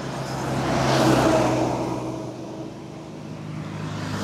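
A motor vehicle passing close by: its engine and road noise grow louder to a peak about a second in, then fade away.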